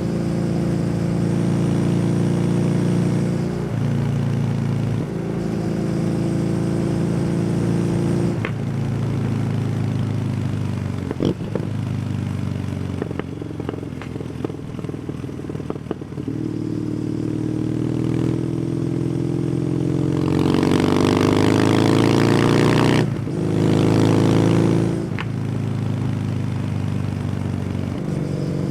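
Kawasaki W800 parallel-twin engine through an SC Project exhaust while riding: steady cruising with a couple of gear changes early, then a stretch off the throttle with scattered crackles and pops. Near the end the engine pulls hard with rising pitch and gets louder, broken by two quick upshifts.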